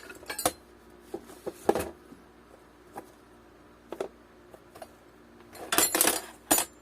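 Small metal hardware, nuts and washers, clinking and rattling as it is handled: a few scattered clicks, then a denser clatter about six seconds in.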